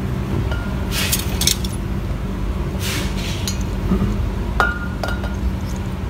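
Light metallic clinks of tools or small metal parts being handled, a handful of sharp clicks with a brief ring, over a steady low hum.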